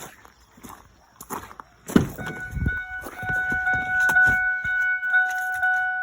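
Footsteps and light knocks, then a loud thump about two seconds in as the 2007 Ford F-150's door is opened. The truck's dashboard warning chime then sounds steadily, pulsing evenly, with a few clicks and knocks over it.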